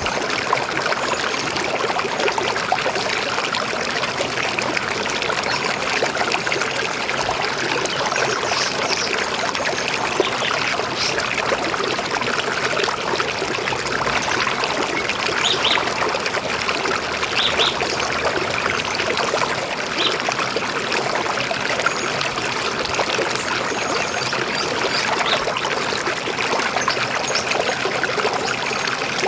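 River water flowing and gurgling steadily over stones, with a few brief high bird chirps scattered through it.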